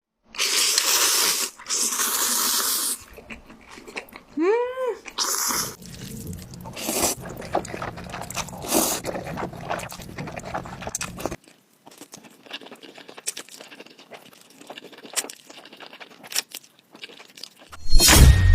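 Close-up eating sounds: crunching and chewing with irregular wet clicks, loud at first and softer in the second half. A short pitched sound rising and falling comes about four and a half seconds in, and a loud sound starts just before the end.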